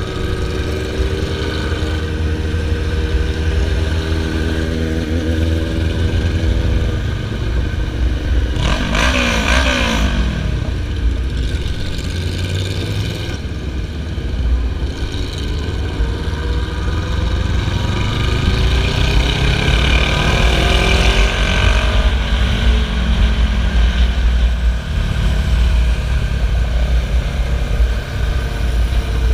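Motorcycle engine running under way, with heavy low wind rumble; a brief louder rush of noise about nine seconds in, and the engine pitch climbs as it accelerates a little past halfway.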